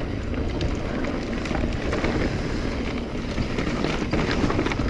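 Wind buffeting a chest-mounted action camera's microphone while a mountain bike rolls over a dirt trail, with scattered small rattles and clicks from the bike.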